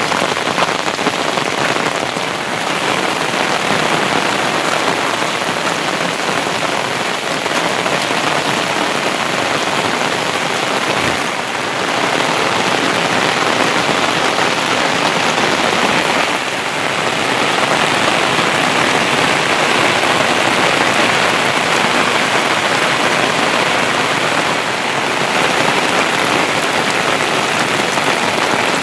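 Heavy monsoon rain falling steadily, a loud even hiss of rain on the ground.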